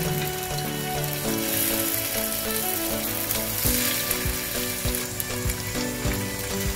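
Raw minced-chicken kabab patties sizzling as they shallow-fry in a teaspoon of oil in a non-stick pan, a steady hiss. From about the middle on come a few soft knocks as a patty is set in the pan and a spatula is worked among them.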